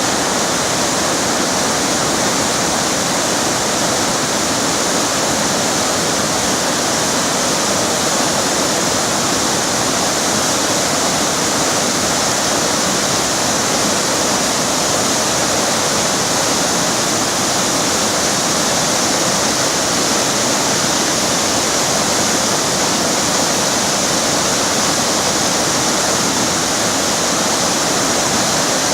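River water rushing steadily, a loud, unbroken sound with no changes.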